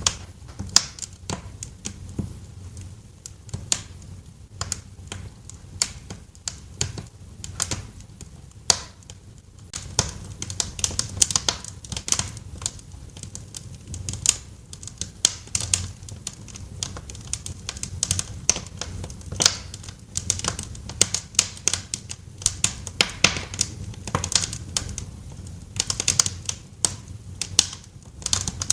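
Wood fire crackling in a fireplace: irregular sharp pops and snaps over a low, steady rumble of the flames, with the snapping getting busier about ten seconds in.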